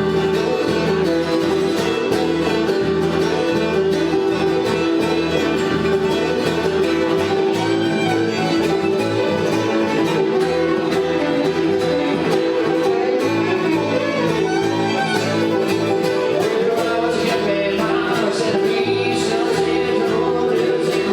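Bluegrass band playing: fiddle over flatpicked guitar with a bass line underneath, steady and continuous, starting abruptly at full level.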